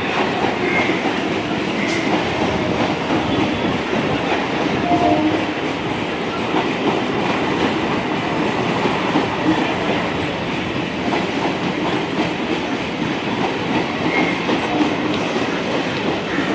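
Suburban local train running along the track, its wheels clattering steadily over the rails.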